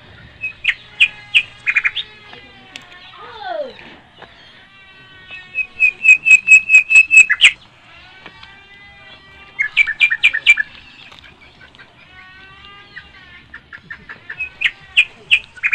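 Birds chirping in quick series of short, high notes. The loudest is a fast run of about a dozen notes near the middle, and a single lower, falling call comes a few seconds in.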